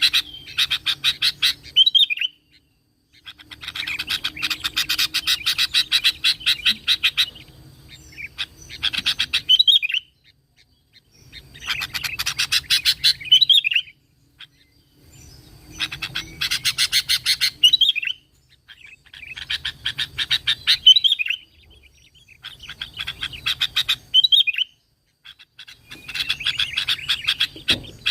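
Sooty-headed bulbul (kutilang) singing in repeated bouts, about eight of them, each a fast run of short notes ending in a brief warbled phrase, with short pauses in between.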